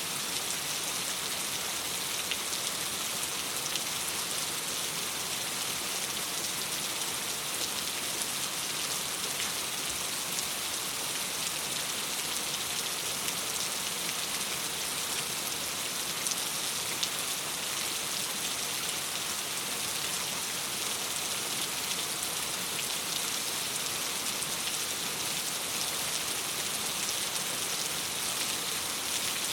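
Steady rain against a window glass: an even hiss with a fine patter of drops, unchanging throughout.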